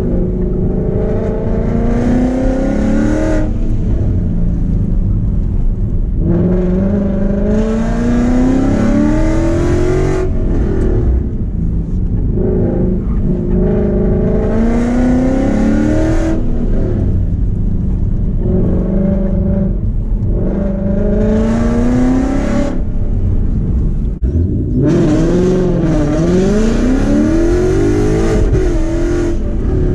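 2015 Ford Mustang GT's 5.0-litre V8, fitted with long-tube headers, an X-pipe and Borla ATAK mufflers, heard from inside the cabin as the car accelerates and lifts through an autocross course. The engine pitch rises and falls back about five times, with a quick up-and-down near the end.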